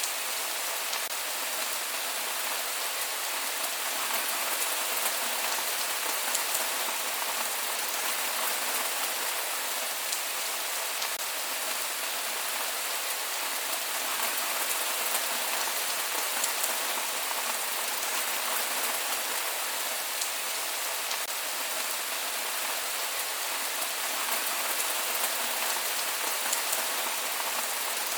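Steady rain falling on surfaces, an even hiss with scattered drop ticks and no thunder.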